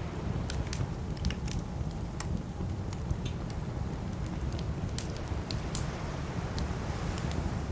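Campfire burning: wood crackling, with a dozen or so sharp, irregular pops over a steady low rumble.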